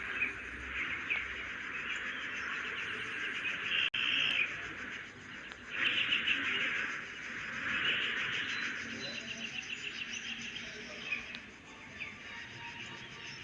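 A steady high chorus of chirping and trilling, like birds and insects, with louder bursts of chirping every few seconds.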